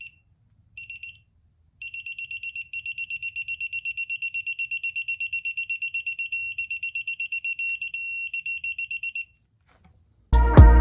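Rapid high-pitched electronic beeping, about six beeps a second: two short bursts, then a steady run of about seven seconds that stops. Music begins near the end.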